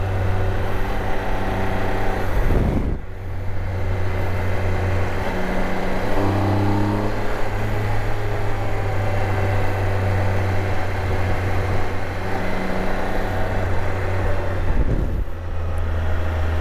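Motorcycle engine running under way, with wind noise on the microphone. The engine note shifts in pitch a few times and dips briefly twice, about three seconds in and near the end.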